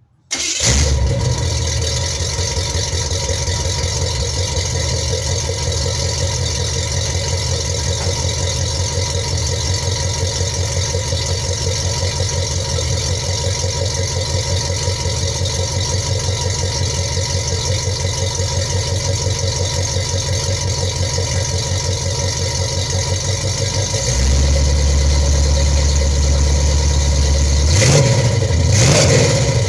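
1972 Buick V8, warm, fired up through new headers, a 2.5-inch exhaust and old Flowmaster mufflers, catching almost at once and settling into a lumpy, pulsing idle. The header collectors have no gaskets and are not tightened, so the exhaust leaks. About 24 seconds in, a steadier low drone makes it louder, and near the end the engine is blipped twice.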